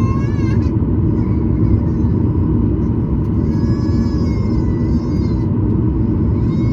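Steady low rumble inside the cabin of a Boeing 737-900ER, its CFM56 engines and airflow running, with faint steady tones. A high wavering cry rises over it three times: at the start, for about two seconds in the middle, and near the end.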